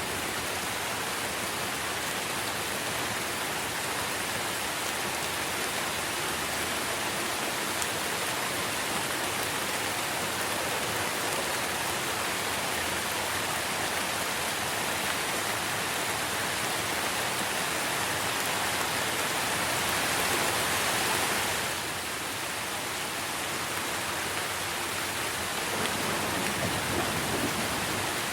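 Steady rain falling on trees and leaves, an even hiss that swells slightly about three-quarters of the way through and then eases back.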